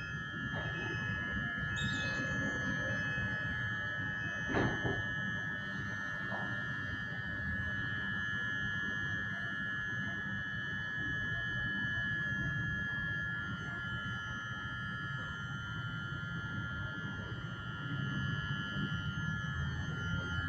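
Electric multiple unit standing at the platform, its equipment giving a steady high-pitched whine over a low rumble. A few short beeps sound in the first few seconds, and there is a single sharp knock about four and a half seconds in.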